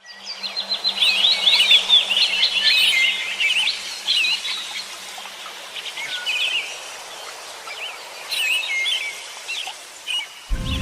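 Songbirds singing, with quick, varied chirps and trills that are busiest in the first few seconds and then come in scattered calls. Music starts abruptly near the end.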